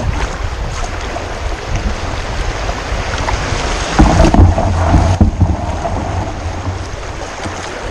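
Water rushing over a shallow rocky shoal around a kayak. About halfway through there is a louder low rumble lasting a little over a second, as the hull bumps over rocks.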